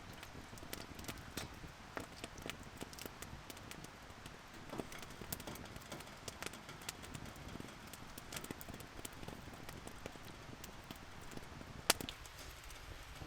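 Burning firewood crackling with irregular small pops over a steady hiss, one sharper pop near the end.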